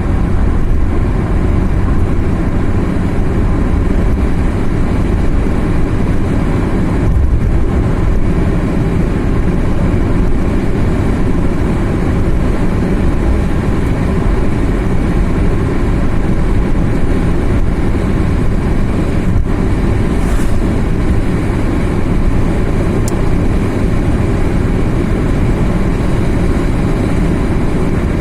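Car driving at a steady speed, with a constant low engine and tyre rumble heard from inside the cabin.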